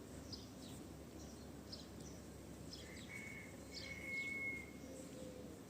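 Faint outdoor background with small birds chirping, short high calls repeated every second or so, and a thin steady whistle held for over a second about three seconds in.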